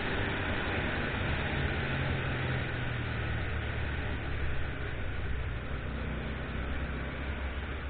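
Motorcycle engine running while riding, under a steady rush of wind noise.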